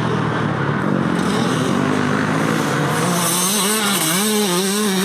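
Motocross bike engines running loud on the track. About three seconds in, one bike's engine stands out, its pitch rising and falling with the throttle before it holds steady.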